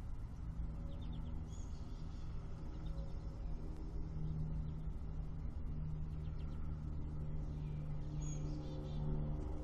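Spring-morning birdsong: short bird chirps and calls now and then, about a second in, around three seconds and near the end, over a steady low hum.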